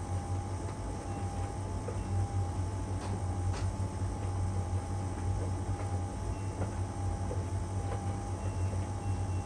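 LG heat pump dryer running mid-cycle with the drum turning one way: a steady low hum and a constant whine, with a few light clicks from the tumbling load, two sharper ones about three seconds in.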